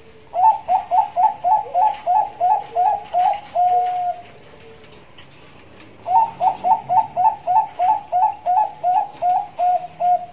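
A Bangkok-line zebra dove (perkutut) singing its cooing song in the rapid 'nduduk ngitit' style. It sings two phrases a couple of seconds apart, each a quick run of about a dozen short notes ending in a longer held note.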